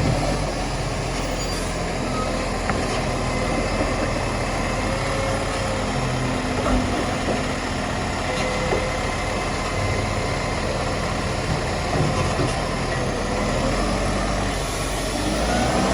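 Garbage truck engine running steadily, with a few light knocks; the engine pitch rises near the end.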